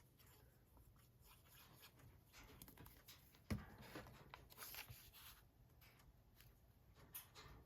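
Near silence with faint rustling and light ticks of paper being handled, and one soft knock about three and a half seconds in.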